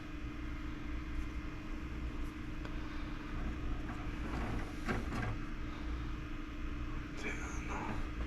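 A steady low mechanical hum with a constant tone, and a few faint clicks and rustles of handling about four to five seconds in.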